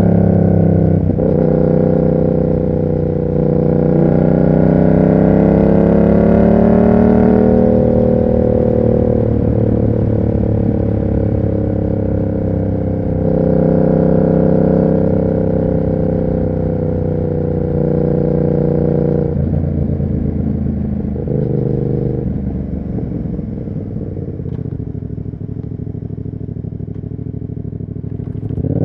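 Yamaha MT-07's parallel-twin engine running through an SC Project exhaust, its note rising and falling with the throttle. The revs climb for a few seconds, hold, then drop about twenty seconds in to a lower, quieter steady note before picking up again at the end.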